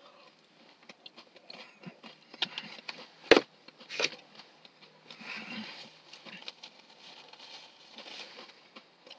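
Chewing a mouthful of Fritos corn chips with chili and cheese: small wet crunches and mouth clicks, with two sharper clicks about three and four seconds in. A paper napkin rustles near the end.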